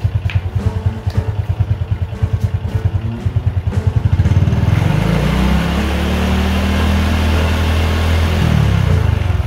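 Small engine idling with a fast pulsing beat, revving up about four seconds in, holding at higher speed, then dropping back to idle near the end.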